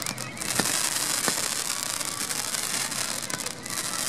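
Fireworks crackling densely and continuously, with a couple of sharper pops in the first second and a half.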